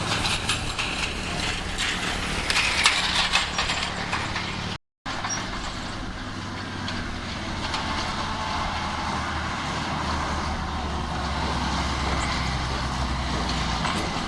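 Diesel engine of heavy earthmoving machinery running steadily, with metallic clanking and rattling over it for the first few seconds. The sound cuts out briefly about five seconds in, then the engine carries on steadily.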